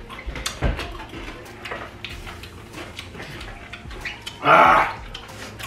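Close-miked eating of crunchy papaya salad: chewing and mouth sounds with many small clicks, and a short, loud rasping noise about four and a half seconds in.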